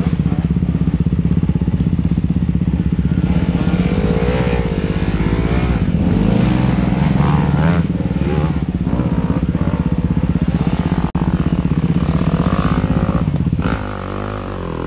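Enduro dirt bike engine heard from on board, running at low revs with the pitch wavering as the throttle is worked. About fourteen seconds in the throttle closes and the engine drops to a lower, uneven run.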